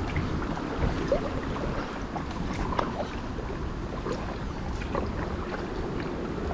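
Water lapping and splashing around a kayak on a creek, with scattered small clicks and drips and wind rumbling on the microphone.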